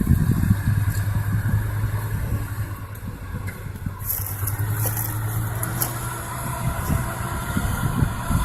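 A heavy vehicle's engine running with a low, steady drone, along with rumbling from the vehicle moving.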